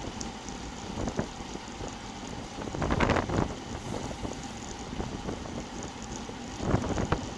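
Wind buffeting the microphone of a bike-mounted action camera while riding. It is a steady rumble that rises into two louder gusts, one about three seconds in and one near the end.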